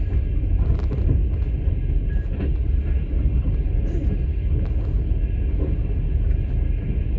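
Moving passenger train heard from inside a platzkart sleeper carriage: a steady low rumble of wheels on rails, with a few faint, irregular knocks and rattles.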